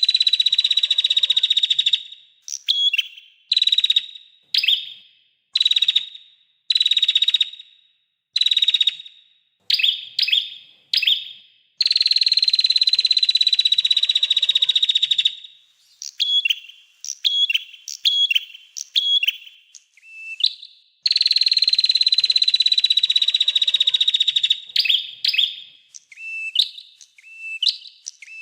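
Small songbird singing: long, fast trills that sink slightly in pitch, alternating with short trilled bursts and sharp upward-gliding chirps. Long trills come at the start, about twelve seconds in and about twenty-one seconds in.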